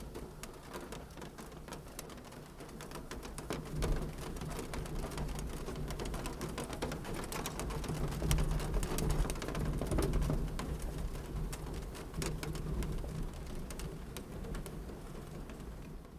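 Wood fire in a fireplace crackling: dense, irregular small pops and snaps over a steady low rumble.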